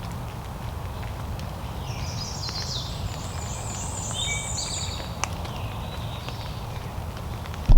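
A small songbird singing several phrases of quick repeated high notes, over a steady low rumble of wind. A loud bump comes near the end.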